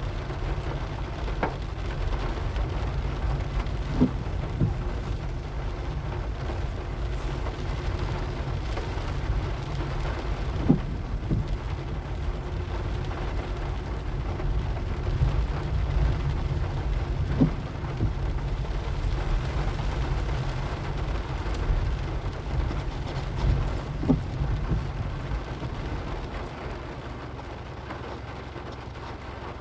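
Steady rain noise over the low rumble of a car driving, with a short thump roughly every six or seven seconds.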